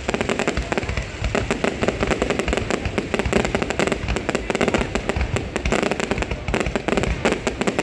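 Aerial fireworks going off in a display: a dense, continuous crackle of rapid sharp pops over low booming rumble.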